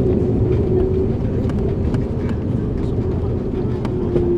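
Airbus A330-200 cabin noise on approach: a steady rumble of engines and airflow. A steady hum fades in the middle and comes back near the end.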